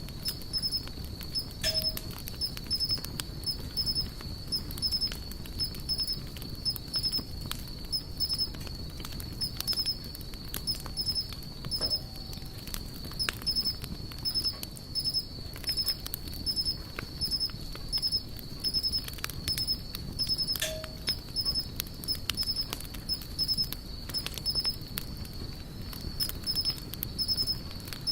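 Campfire crackling steadily, with scattered sharp pops and snaps of burning wood. Throughout, a steady high-pitched tone runs with rapid, regular chirping pulses above it, and two short mid-pitched calls stand out, about two seconds in and about two-thirds of the way through.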